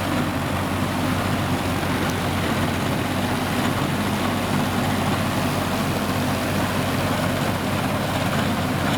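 Kubota M5000 tractor engine running steadily with an even, low hum while driving a rotary tiller.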